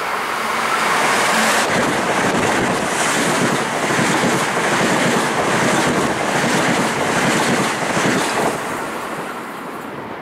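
Metro-North Bombardier M7 electric multiple-unit train passing at speed close by: a loud, steady rush of wheel and air noise that builds over the first second or two and fades after about eight seconds, with wind buffeting the microphone.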